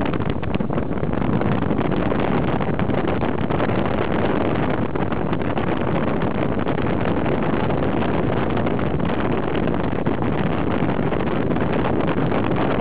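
Steady engine noise of a moving vehicle, with wind buffeting the microphone.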